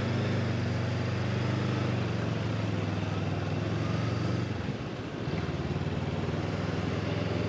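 Honda CB500X parallel-twin engine running steadily while riding; its note drops briefly about five seconds in, then picks up again.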